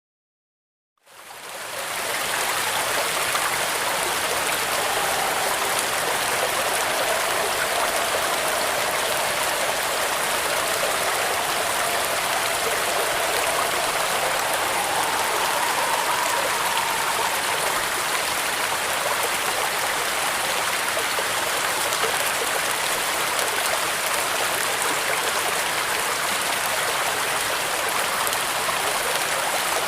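Steady heavy rain pouring on a corrugated zinc roof, fading in from silence about a second in.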